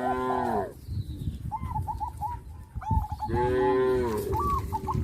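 Cattle mooing twice, each moo about a second long: cows calling to their herd-mates. Between the moos come short, quick high calls, repeated several times.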